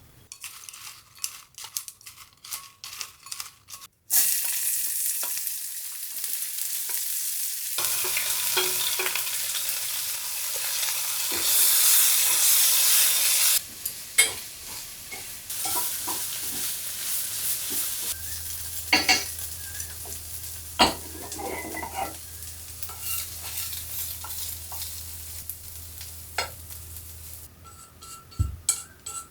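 Food frying in hot oil in a pan: a loud sizzle starts suddenly about four seconds in, after a few light utensil taps, then settles to a quieter sizzle about halfway through while a spatula or spoon clicks and scrapes in the pan. A low steady hum runs under it for a while in the second half.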